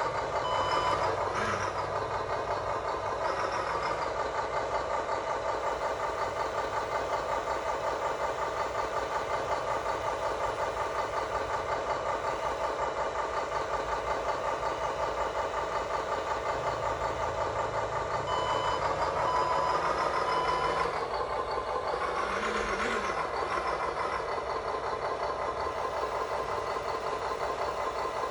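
Radio-controlled construction models running steadily, a whining motor sound throughout, with a reversing beeper sounding briefly near the start and again a few times about two-thirds of the way through.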